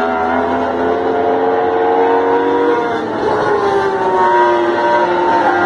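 Racing motorcycles passing at speed on a race circuit, very loud. Their engine notes climb, then drop in pitch about three seconds in and again near the end as bikes go by.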